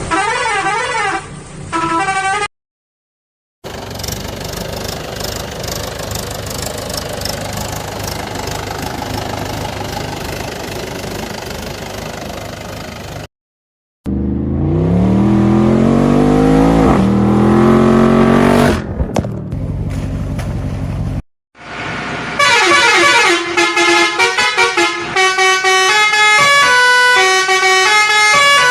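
A series of separate toy or cartoon vehicle sound effects broken by short silences: vehicle horns and a running engine, one rising in pitch, ending in a run of stepped musical horn notes.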